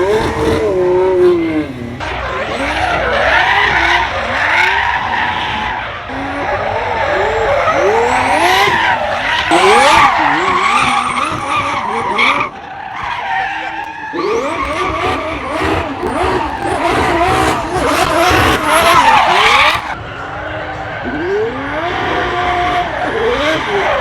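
Drift car being driven hard: the engine revs up and down over and over, with long tyre screeching and skidding as it slides.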